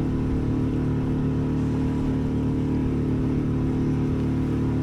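A small sailboat's motor running steadily at an even pitch.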